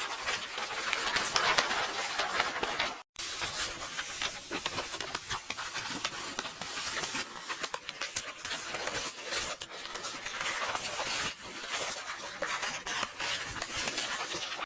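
AI-generated sound effect of paper: book pages rustling and turning, a continuous crackly, papery noise full of small clicks. It cuts out completely for a split second about three seconds in.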